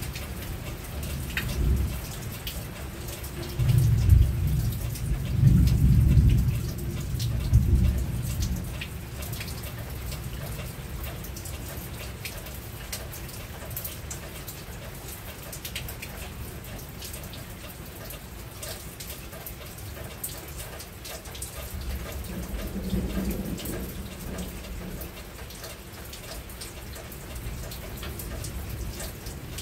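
Rain falling steadily on a roof, with scattered drops ticking. A low rumble of thunder swells several times from about two seconds in to about eight seconds in, and a fainter rumble comes about twenty-two seconds in.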